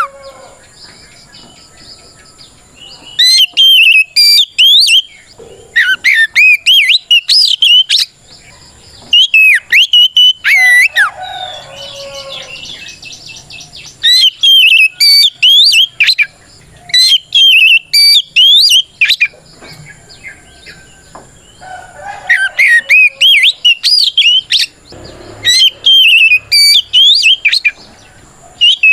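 Oriental magpie-robin (kacer) singing loud, rapid whistled phrases in bouts of one to three seconds with short pauses between them. This is its full 'ngeplong' challenge song, a male calling out a rival.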